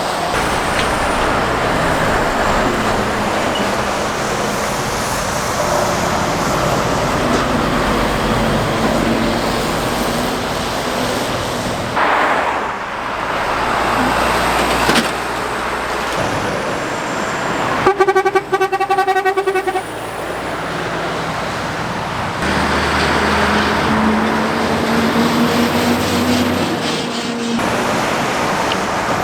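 Heavy goods vehicles and other traffic passing on a main road, with engine and tyre noise throughout. Past the middle, a horn sounds for about two seconds in quick stuttering pulses.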